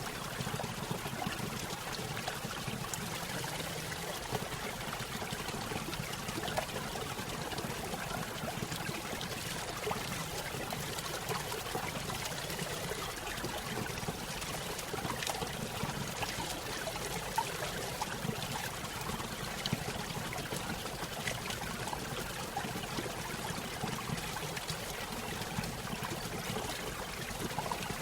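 Small stream spilling over a little waterfall, with steady splashing and trickling water.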